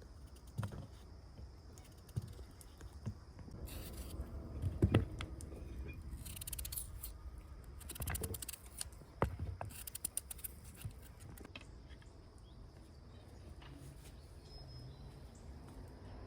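Food-preparation handling sounds: scattered sharp clicks and knocks with a few short scraping or snipping strokes, the busiest stretch in the middle.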